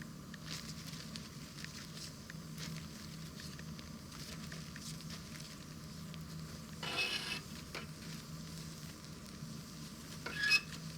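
Wood campfire crackling with scattered small pops. A brief hissing flare comes about seven seconds in, and a louder cluster of pops near the end.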